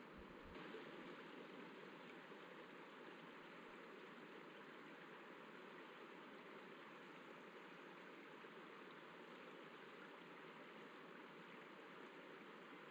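Faint, steady rush of the Catawba River's water running over rocky shoals.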